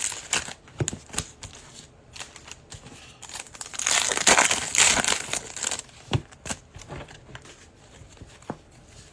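Foil trading-card pack wrapper crinkling as it is torn open, loudest for about two seconds near the middle, with scattered clicks and taps of the cards being handled.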